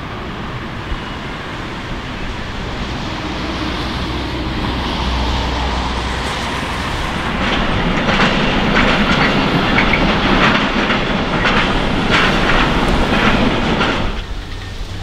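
A train passing: a rumble that builds for several seconds, then a loud stretch of rhythmic wheel clacking over rail joints. It cuts off abruptly about fourteen seconds in.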